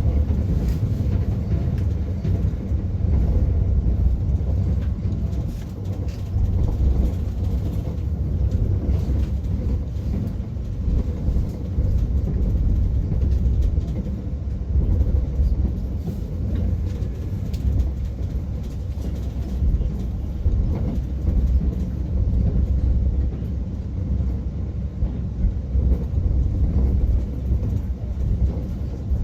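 Train running, heard from inside the carriage: a steady low rumble with faint scattered clicks.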